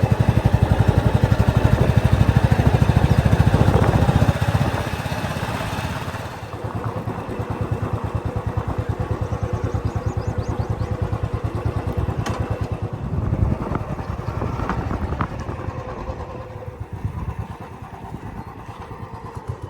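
A vehicle engine running close by with an even, throbbing beat. It is loud for the first four seconds or so, drops to a steadier, quieter level, and fades near the end.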